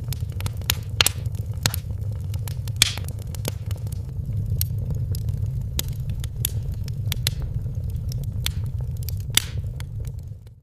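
Wood fire crackling in a fireplace: frequent sharp pops and snaps over a steady low rumble of the flames. It fades out just before the end.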